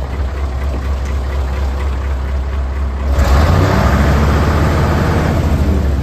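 Mitsubishi Fuso Super Great dump truck's 8DC11 V8 diesel engine idling with a low rumble, then revved up about halfway in and held at higher revs.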